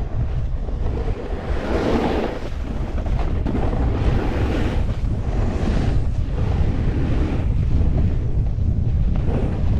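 Wind buffeting an action camera's microphone while snowboarding, a loud, continuous rumble with hissy surges every few seconds.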